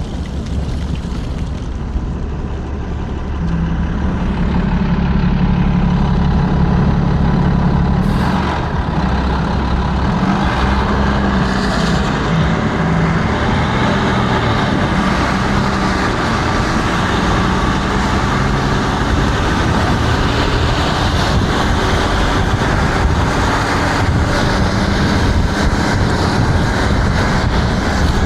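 Steady rush of wind and wet-road noise on a helmet-mounted microphone while riding an electric scooter through sleet. A heavy vehicle's low engine drone runs from a few seconds in to about halfway, with two short hisses around the middle.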